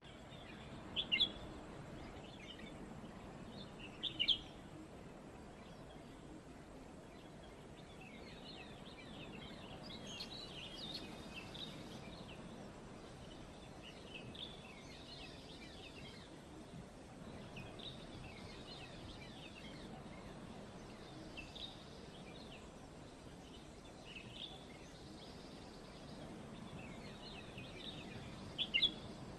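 Birds chirping and calling, with short sharp calls about a second in, around four seconds in and near the end, and scattered twittering in between, over a steady low background hiss.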